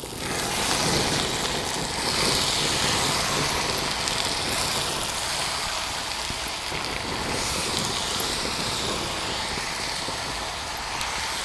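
Cabbage, onion and tomato sizzling in hot oil in a clay pot as they are stirred with a wooden spatula: a steady hiss.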